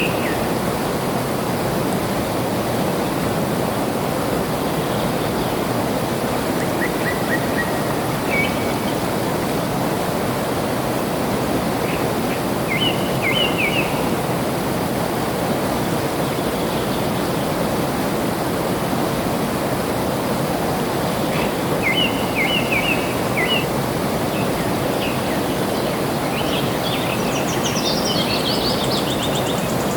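Flowing water making a steady rushing sound, with birds chirping now and then in short phrases, busiest near the end.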